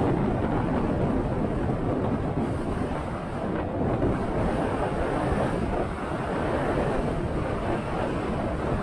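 Steady wind rush buffeting the microphone of a motorcycle under way, with road and engine noise beneath it.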